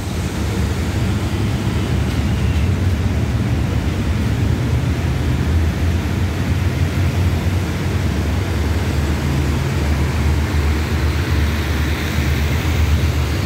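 Diesel-hauled passenger train moving slowly out along the platform: a steady low rumble, with a rush of higher noise building near the end.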